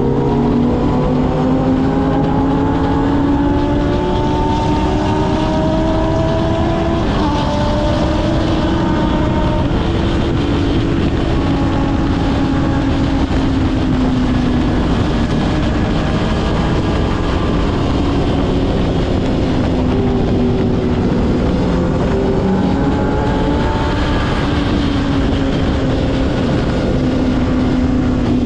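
Kawasaki ZX-6R's inline-four engine running under way, the revs climbing slowly, changing gear about seven seconds in, then holding fairly steady and rising again near the end, over a steady rush of wind noise.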